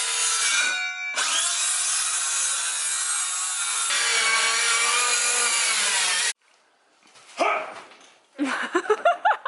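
Electric power saw cutting through a wooden roof rafter, its motor whine steady under the cutting noise, with a brief dip about a second in. It stops abruptly about six seconds in, and short voices follow near the end.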